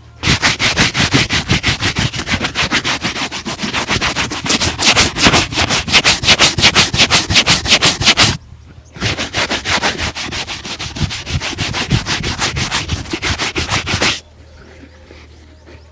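Fast back-and-forth rubbing on shoe leather during a shoe shine, several strokes a second. It comes in two long runs separated by a brief pause, and stops a little before the end.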